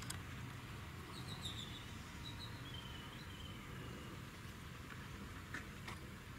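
Outdoor ambience with a small bird chirping: a run of short high notes, each a little lower than the last, from about a second in until about four seconds in, over a low steady rumble, with a couple of faint clicks near the end.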